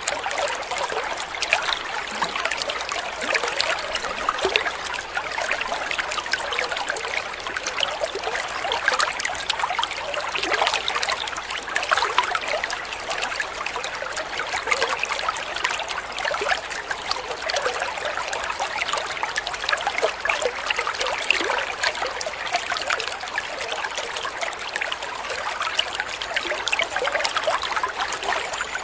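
Water of a small stream trickling and babbling steadily over stones, a continuous, even rush with many small splashes.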